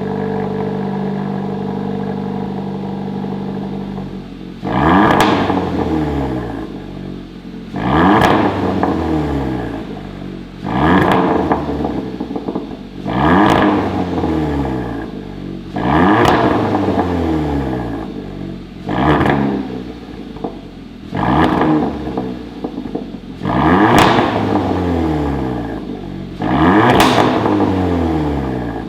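Hyundai Veloster JS 1.6 turbo four-cylinder through a mid pipe and variable-valve end muffler ("popcorn" exhaust), idling steadily and then revved about nine times, every two to three seconds. Each rev drops away in falling pitch with crackles and pops on the overrun.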